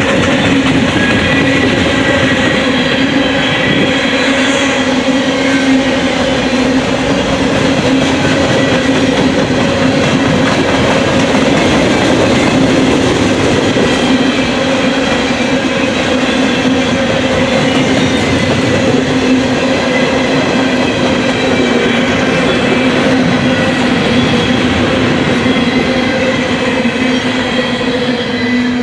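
Coal hopper cars of a freight train rolling steadily past, steel wheels running on the rails with a steady rumble and ringing tones.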